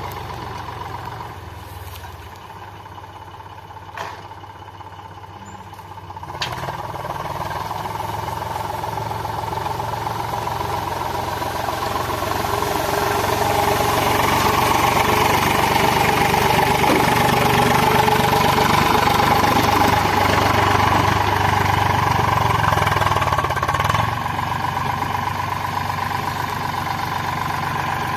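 Eicher 485 tractor's diesel engine running under load as the stuck tractor works to pull free. It is quieter for the first few seconds, then picks up about six seconds in and grows steadily louder through the middle, easing off a little near the end.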